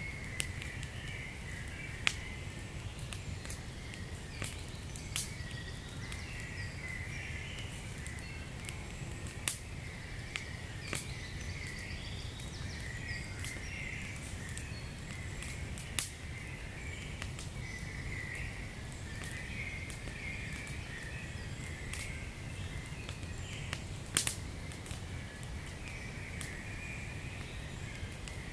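Wood fire crackling in a fireplace, with scattered sharp pops over a low steady rumble and a fluttering hiss. The loudest pops come at about 2, 9.5, 16 and 24 seconds in.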